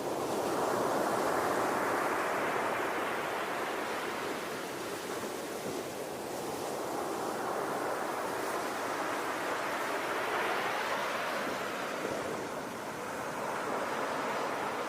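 Ocean surf: waves breaking and washing in, the hiss of water swelling and ebbing in slow surges.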